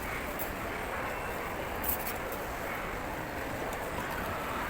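Steady outdoor background noise, like street ambience with distant traffic, with a few faint clicks about two seconds in.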